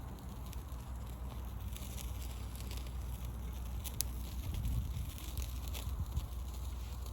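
Wood fire crackling with scattered pops, one sharp pop about four seconds in, over a steady low rumble.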